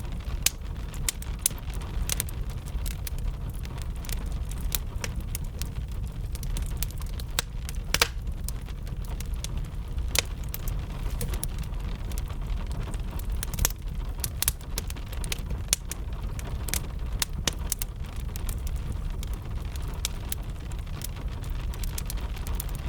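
Wood fire crackling, with frequent irregular sharp pops and snaps, the loudest about eight seconds in, over a steady bed of gentle rain.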